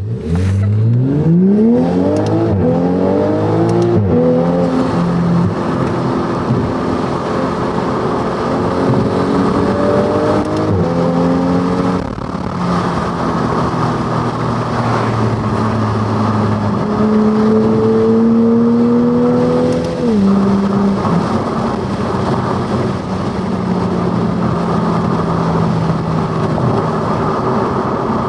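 Toyota Supra's B58 turbocharged inline-six through an RK titanium exhaust with a catted downpipe, pulling hard under acceleration. The revs climb quickly at the start, then keep rising more slowly, with sudden drops in pitch at gear changes about 12 and 20 seconds in, before holding a steady drone.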